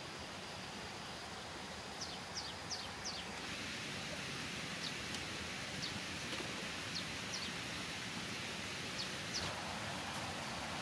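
A small bird's short high chirps, each dropping quickly in pitch. A quick run of four comes about two seconds in, then single chirps every second or two, over a steady outdoor hiss.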